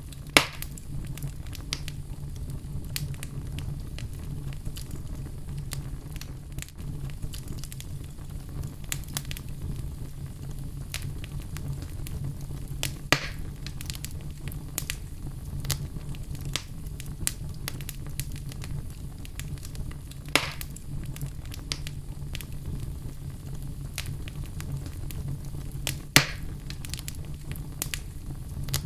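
Wood fire burning in a fireplace, crackling steadily over a low rumble, with four louder sharp pops spread through, the first about half a second in.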